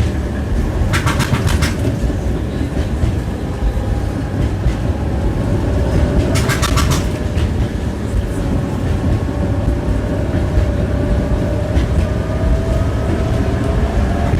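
Tram rolling along the track with a steady low rumble. Its wheels clatter over rail joints in two quick rattling runs, about a second in and again around six seconds in. A faint steady whine rises a little near the end.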